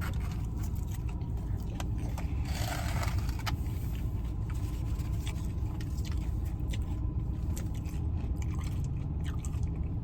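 A person eating: chewing and small scraping clicks from food and its packaging, with a short rustle about two and a half seconds in, over a steady low rumble.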